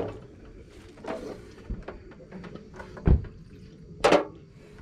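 A few separate knocks and thuds of objects being handled: a low thud, a stronger one, then a sharper, brighter knock near the end.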